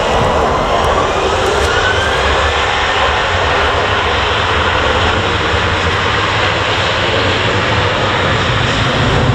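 Jet airliner engines running loud and steady, with a thin whine that rises in pitch over the first couple of seconds.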